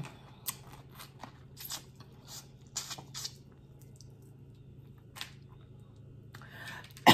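Close-up eating sounds from peeling and eating boiled crawfish: scattered short crunches, smacks and slurps, with a louder burst right at the end.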